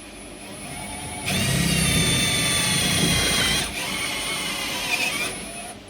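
Power drill boring a hole through wood. The motor's whine builds up, is loudest for about two seconds while the bit cuts, then carries on more lightly near the end.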